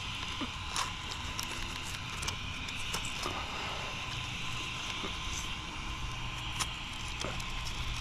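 Scattered light clicks and taps of small parts being handled and fitted, over a steady background hum with a faint whine.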